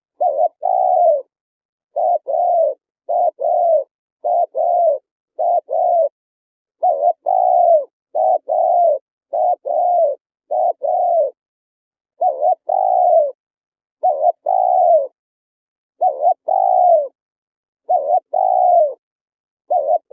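Spotted dove (chim cu gáy) cooing: a long series of low, soft coos in short phrases of two or three notes, each note dipping at its end, with clean silent gaps between the phrases.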